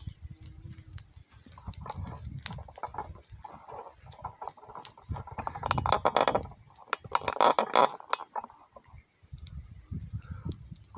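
Wind buffeting the microphone in gusts, with the two strongest gusts about halfway through, and scattered small clicks and crackles over it.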